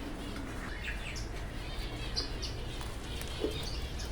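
Small cage birds in an aviary chirping: a handful of short, high chirps scattered through, over a low steady hum.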